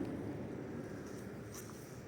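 Road noise of a passing car fading away into the distance, with a few faint high ticks about halfway through.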